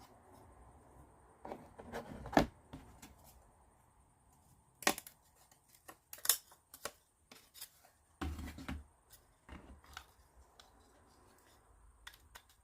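Irregular light clicks, taps and scrapes of small laser-cut plywood kit parts being handled and pressed together by hand, with a duller knock about eight seconds in.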